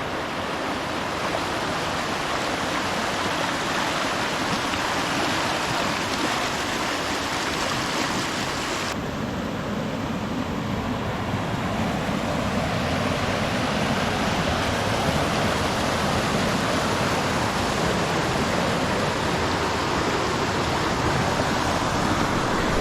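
A creek swollen by heavy overnight rain, rushing steadily like a river. About nine seconds in, the sound turns deeper and less hissy.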